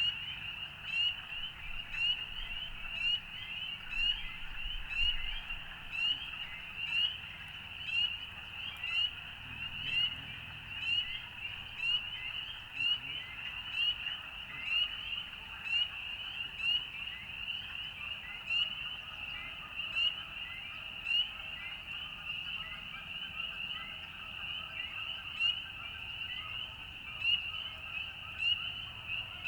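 A chorus of frogs calling: many short, high, rising peeps repeat over and over, the loudest about once a second, over a fainter mass of lower overlapping calls.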